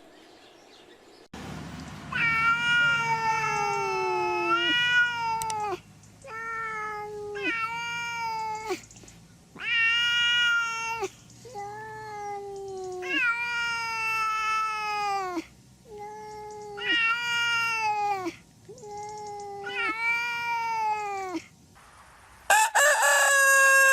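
Domestic cat meowing over and over: about ten drawn-out meows, each falling in pitch at its end. A different, louder call starts near the end.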